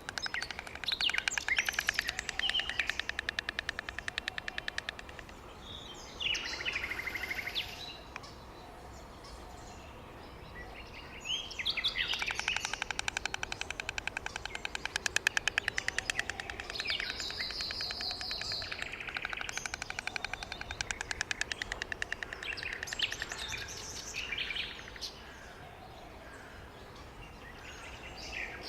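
White stork clattering its bill in several bouts of rapid, wooden-sounding clacks, separated by quieter pauses, with small birds chirping among them.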